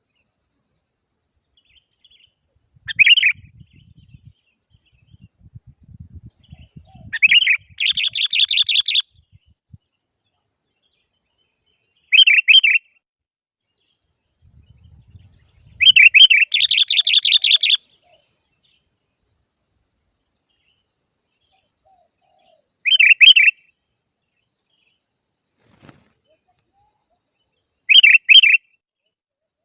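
Sooty-headed bulbul (kutilang) calling: six short bursts of bright notes spaced a few seconds apart, two of them running on into a rapid chattering phrase lasting a second or two.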